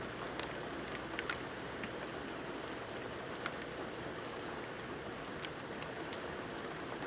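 Steady rain falling, with scattered drops ticking now and then.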